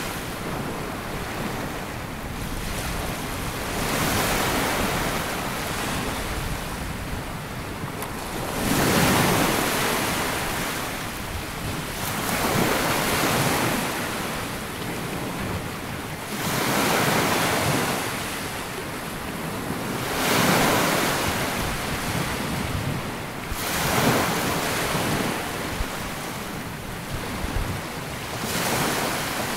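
Small waves breaking and washing up a sandy beach, a swell of surf every three to four seconds over a steady hiss, with some wind buffeting the microphone.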